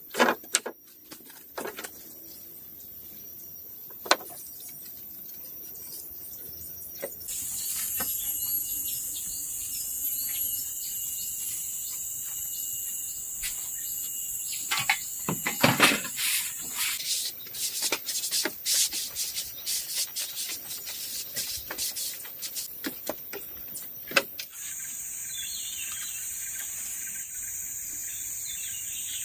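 Insects trilling steadily at a high pitch. About halfway through there is a dense run of sharp taps and knocks, at times several a second.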